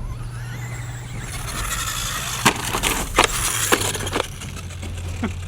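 Radio-controlled short-course truck's motor whining and changing pitch, with four or five sharp knocks about two and a half to four seconds in as the truck hits the dirt.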